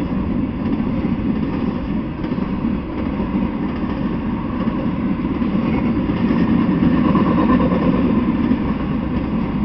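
A trailer-on-flatcar intermodal freight train rolling past: the steady low rumble of its wheels on the rails, swelling a little about two-thirds of the way through.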